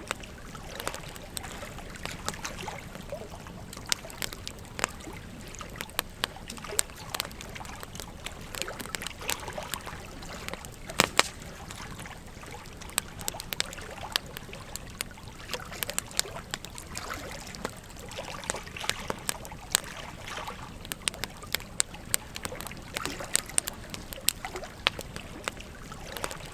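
Campfire crackling, with frequent irregular sharp snaps and pops, the loudest about eleven seconds in, over the steady flow of a gentle stream.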